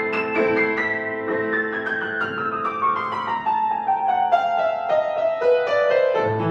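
Solo piano playing: a run of notes descends steadily in pitch over held lower notes, and a new low note comes in near the end.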